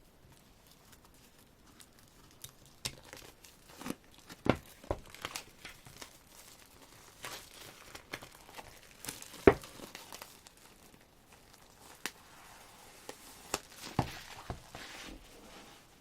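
Packaging crinkling and tearing as a CD album is unwrapped and opened, with scattered knocks and taps from the album being handled; the loudest knock comes about nine and a half seconds in.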